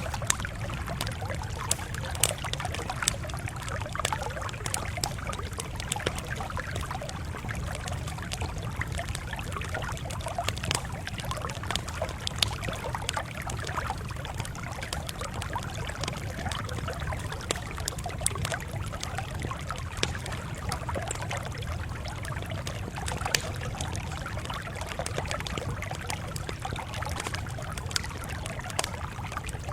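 Campfire burning with a steady low rumble and frequent irregular crackles and pops.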